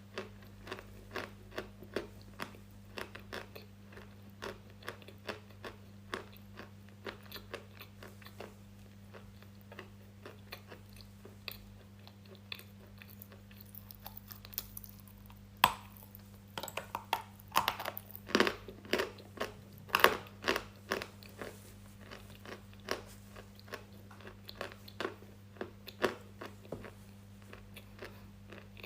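Crunchy food being bitten and chewed close to the microphone: a steady run of sharp crackling crunches that come thicker and louder about halfway through. A faint steady electrical hum lies underneath.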